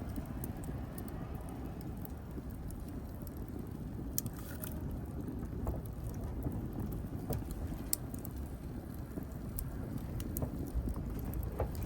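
Wood fire burning: a low steady rush of flame with scattered sharp crackles and pops from the burning wood, a handful of them louder than the rest.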